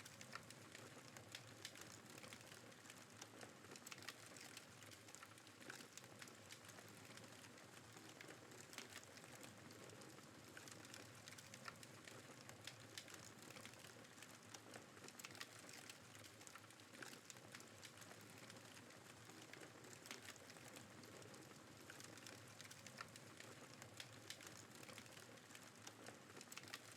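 Faint campfire burning, the wood crackling with many small, irregular pops and snaps over a soft steady hiss.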